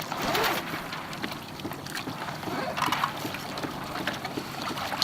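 Water sloshing against a kayak hull with wind on the microphone, swelling briefly twice (about half a second in and about three seconds in), with scattered small clicks and knocks.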